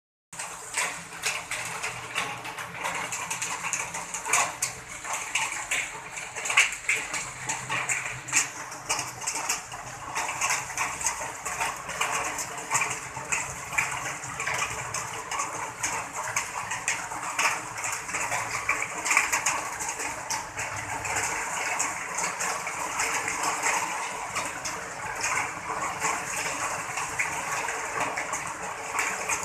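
Heavy rain pouring in a windstorm: a dense, steady hiss of rain with many sharp spatters, and gusts of wind through the trees that make it swell and ease.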